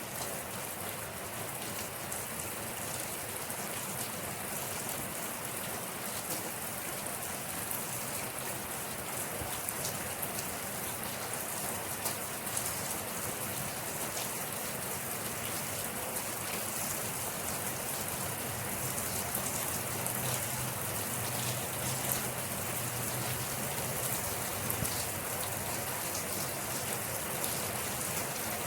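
Steady rain falling, with many fine drop ticks pattering on a surface over a continuous hiss.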